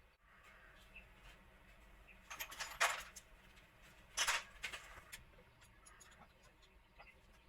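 Metal parts being handled, giving two short bursts of clinking and rattling, about two and a half seconds in and again a second and a half later.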